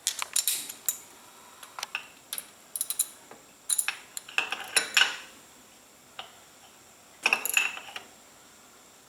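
Metal hand tools and engine parts clicking and clinking in about four short clusters, the loudest around the middle and again near the end.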